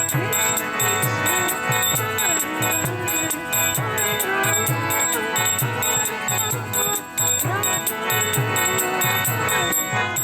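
Kirtan accompaniment between chanted lines: a mridanga drum beating a steady rhythm of about two strokes a second, brass karatal hand cymbals ringing in quick time, and steady sustained tones over them.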